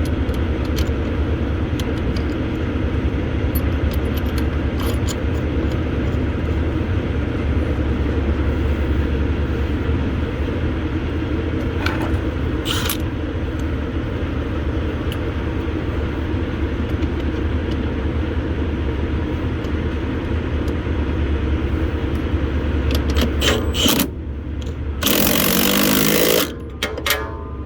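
A vehicle engine idling steadily with a low rumble, with scattered light clicks and taps over it. Near the end the rumble breaks off briefly and a loud rush of noise lasts about a second and a half.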